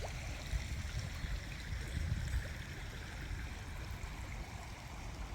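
Steady rushing of flowing river water, with a low, uneven rumble underneath.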